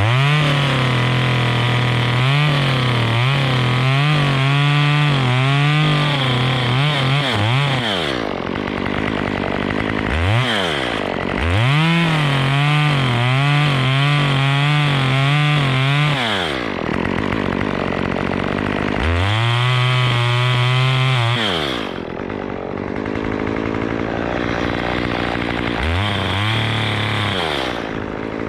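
Two-stroke chainsaw cutting wood in four bursts. Each time it revs from idle to full throttle, the pitch wavers and dips under load while it cuts, then it drops back to idle. The two longest cuts come first; the last two are shorter.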